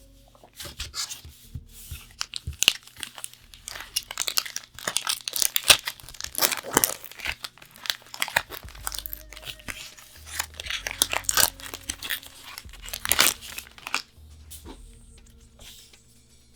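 A Magic: The Gathering booster pack wrapper being torn open and crinkled by hand: a long run of sharp, irregular rips and crackles that dies down about two seconds before the end.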